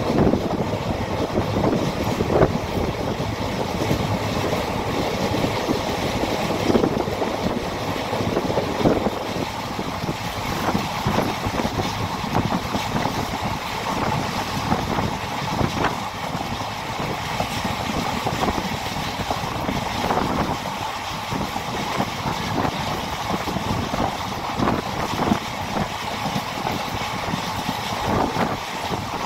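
A moving train heard from on board: a steady rumble of wheels on rails with frequent small knocks and rattles.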